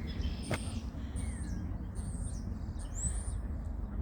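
Small birds in trees giving a string of short, high chirps and whistles, one sliding note about three seconds in, over a steady low rumble. A single sharp click about half a second in.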